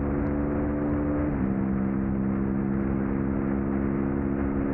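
Suzuki SV650's 90-degree V-twin running hard under race load, heard from on the bike with wind noise. The engine note holds steady, with a small step down in pitch about a second and a half in.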